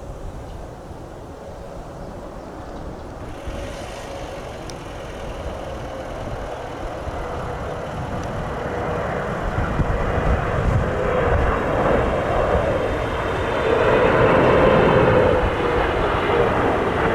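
Jet airliner on approach to land, its engine whine and roar growing steadily louder as it comes closer, loudest near the end. Gusty wind rumbles on the microphone throughout.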